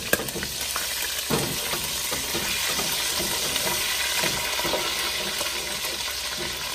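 Chorizo frying in hot rendered bacon and ham fat, a steady sizzle. Two sharp pops of grease come in the first second and a half, with smaller crackles scattered through.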